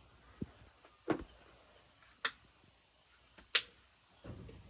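Crickets chirping in a steady, high, pulsing trill, with three sharp clicks about a second apart.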